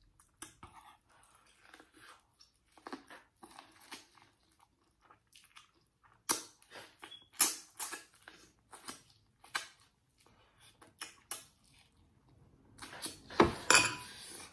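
Close-miked chewing and biting of corn on the cob: a run of short wet mouth clicks and smacks, with a louder cluster of bites near the end.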